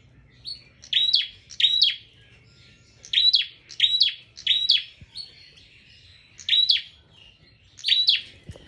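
A prinia (prenjak) singing vigorously: loud, sharp, rapid call notes in bursts of two or three, each note a quick downward-sweeping chirp, repeated about seven times with short pauses between groups.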